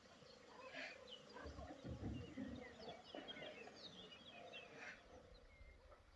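Faint birdsong: small birds giving short, high chirps and twitters scattered throughout, over a quiet outdoor background.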